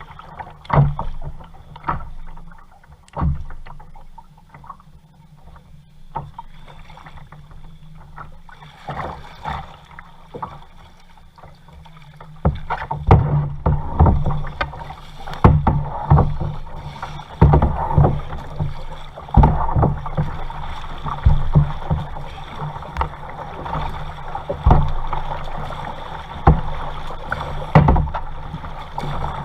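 Kayak paddle strokes splashing and dripping in lake water, sparse at first, then steadier at about one stroke a second from about halfway through, over a low steady hum.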